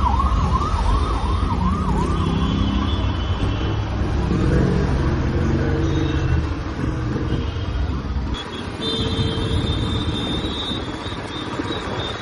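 Royal Enfield Classic 350's single-cylinder engine running under way, its note shifting in pitch as the bike rides. A siren wails up and down for the first couple of seconds. About eight seconds in the engine's low thump drops off sharply.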